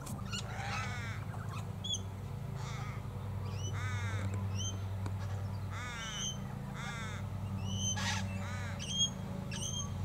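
Birds calling over a low steady engine drone: a series of harsh, crow-like cawing calls about once a second, with short high rising chirps between them. The drone underneath is the steady running of lawnmower engines.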